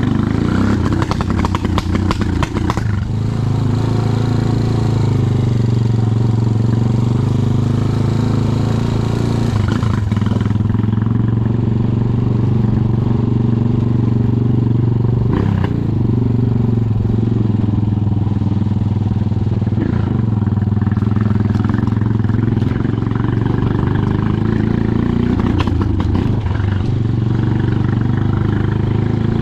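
Motorcycle engine running while riding, with a steady note whose pitch rises and falls gently with the throttle.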